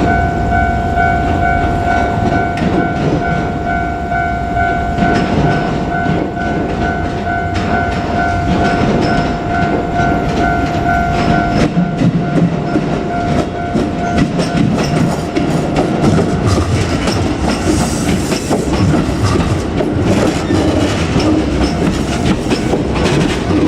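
Level-crossing warning bell ringing in an even pulsing tone while a JR Kyushu 787-series electric train runs over the crossing, its wheels clattering over rail joints. The bell stops about halfway through while the train keeps rumbling past.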